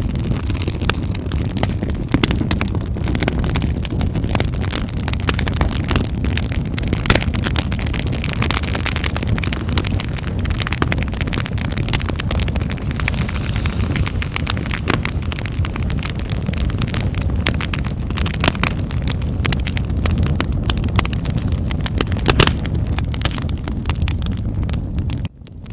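Wood fire burning in a fireplace: a steady low rumble of flames with frequent sharp crackles and pops. The sound drops out for a moment near the end.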